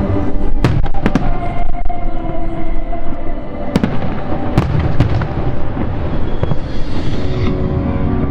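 Fireworks going off in a series of sharp bangs and cracks, a cluster about a second in and more around four to five seconds, over music playing.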